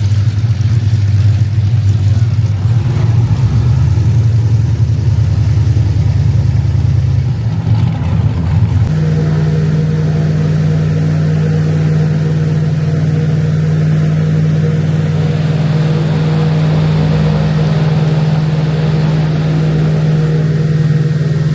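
Airboat engine and propeller running loudly and steadily; about nine seconds in the engine note steps up and a high hiss joins as it speeds up.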